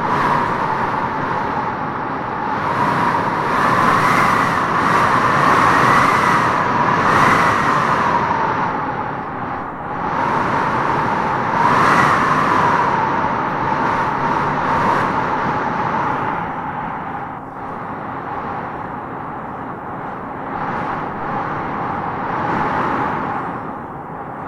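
Howling wind gusting through tropical trees: a steady rush with a whistling tone that swells and rises in pitch with each gust, strongest about a third of the way in and again near the middle.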